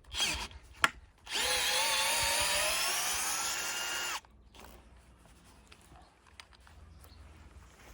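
Electric drill-driver running for about three seconds, its whine rising slowly in pitch before it stops abruptly. A short scrape and a sharp click come just before it.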